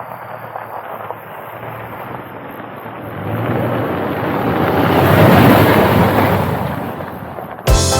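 Wind rushing over the microphone in a gust that builds to its loudest about five seconds in and then eases off. Music starts just before the end.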